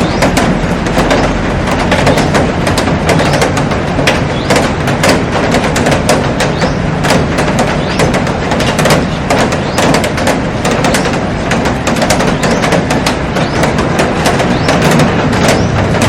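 Heavy rain falling on a glass roof and garden plants: a dense, steady hiss crowded with many sharp, close drop impacts.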